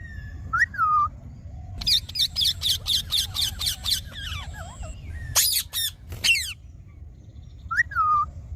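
Indian ringneck parrot calling: a short whistle that rises then falls, then a fast run of about ten harsh notes, then two loud screeches past the middle, and another falling whistle near the end.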